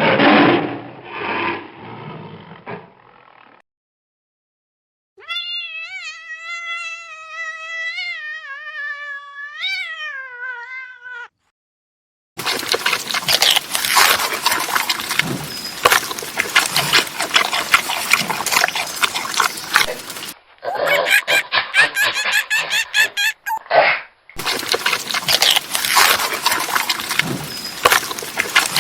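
Cat sounds: a single long meow that wavers in pitch for about six seconds and falls at the end, followed by long stretches of dense crackling noise.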